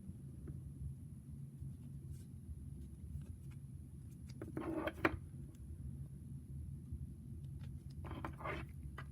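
Plastic action figure and its parts being handled: a few faint clicks and two short scraping rustles, one about halfway through and one near the end, over a steady low hum.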